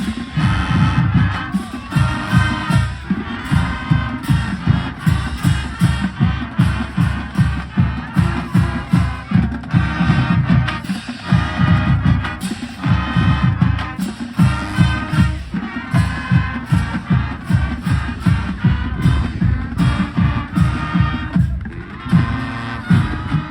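Marching band music with a steady, heavy low beat, about two to three beats a second.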